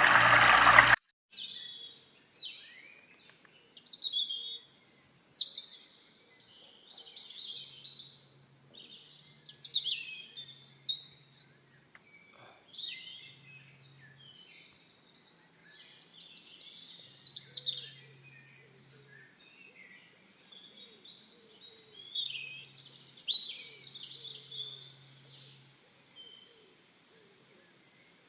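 Birds chirping and singing in short, scattered calls with quiet gaps between them. At the very start, water runs loudly for about a second and then stops abruptly.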